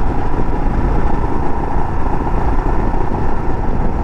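Motorcycle engine running steadily while riding uphill.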